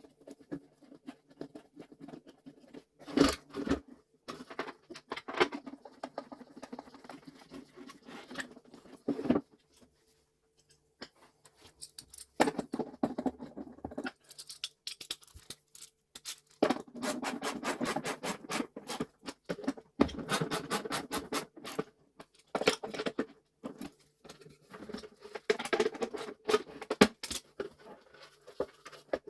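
Hands working on the plastic housing and motor of a Vax 6131T Multivax vacuum cleaner during reassembly: irregular clicks, knocks, scrapes and rattles of parts being fitted, with short pauses between.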